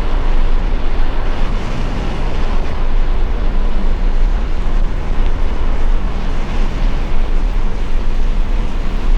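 Steady low wind rumble buffeting the microphone of a bike-mounted camera while cycling, mixed with rolling road noise.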